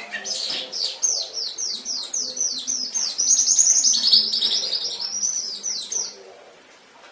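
Domestic canary singing: a fast run of high, repeated downward-sweeping notes that stops about six seconds in.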